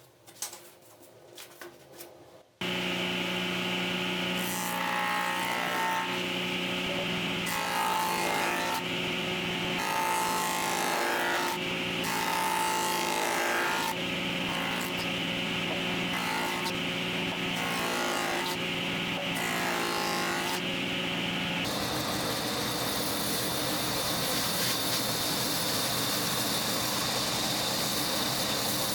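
An electric power tool starts about two and a half seconds in and runs steadily under load, its tone shifting with each pass of the work. About 22 seconds in, the sound changes to a steadier, hissier run.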